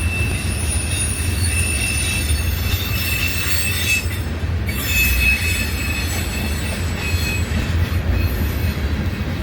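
Train rolling through the curve of a wye, its wheel flanges squealing on the rails in steady high-pitched tones over the low rumble of the cars. The squeal drops away for a moment about four seconds in, then comes back.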